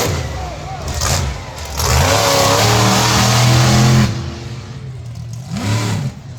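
Monster truck engine revving hard in bursts: a rev at the start, a long full-throttle stretch in the middle, then a drop and another quick rev near the end.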